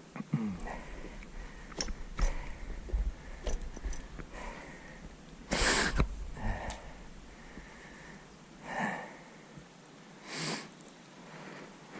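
A person breathing hard and sniffing close to the microphone, with a sharp breath every couple of seconds, the loudest about halfway through. Scattered clicks and a low rumble run through the first half.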